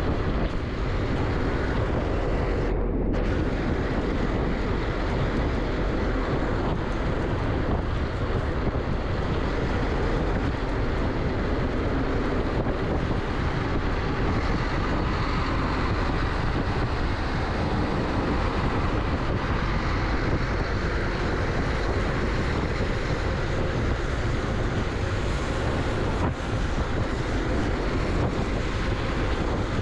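Steady wind rush over the microphone of a bike-mounted camera on an e-bike ridden at speed, a constant rushing noise heaviest in the low end.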